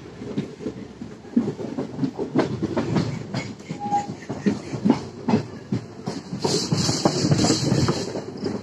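Wheels of a moving passenger train's coach clattering over the rails in a steady run of knocks over a low rumble, heard from inside the coach through an open window. A rushing hiss swells about two-thirds of the way through.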